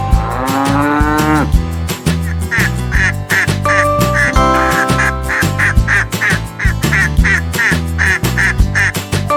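A cow's moo ending about a second and a half in, then a duck quacking over and over, about two or three quacks a second, over background music with a steady beat.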